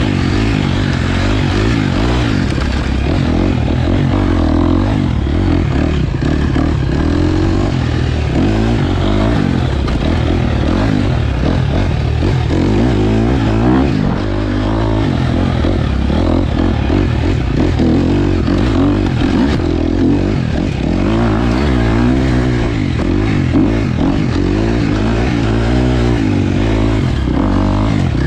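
KTM 250 XC-F dirt bike's single-cylinder four-stroke engine being ridden hard, its revs rising and falling over and over as the throttle is worked.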